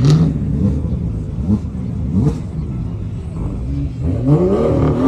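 Car engine revving, its pitch rising in short blips and then a longer climb near the end, with a few sharp cracks.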